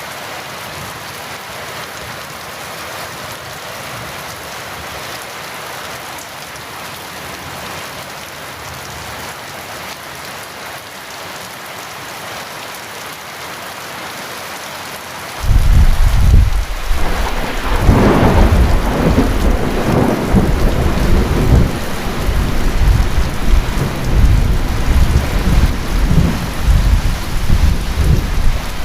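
Heavy rain falling in a steady hiss. About fifteen seconds in, thunder cracks in suddenly and loud, then keeps rumbling and rolling in waves through the rest.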